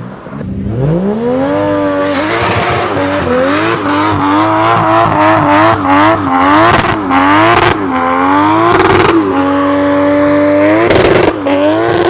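Modified Nissan Silvia drifting: the engine revs up about half a second in, then rises and falls repeatedly under throttle before holding high revs, over continuous tyre squeal. A thin high whistle rises around two seconds in.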